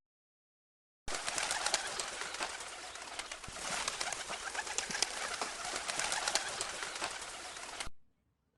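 Birds calling, with a dense crackle of short clicks: the sound starts abruptly about a second in and cuts off near the end.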